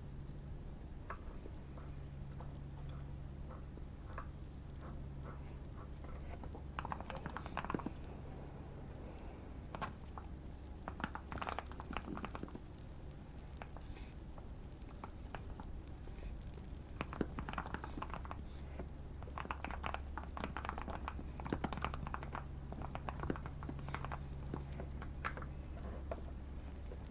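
Typing on a modded Keychron Q1 mechanical keyboard: runs of quick keystrokes broken by short pauses, over a steady low hum and light fire crackling.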